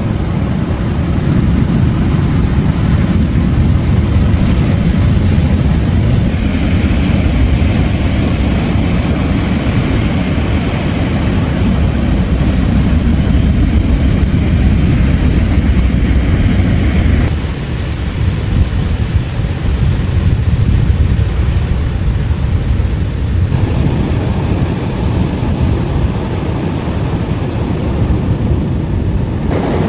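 Steady low rumbling roar of surf, which changes abruptly several times as separate recordings are cut together.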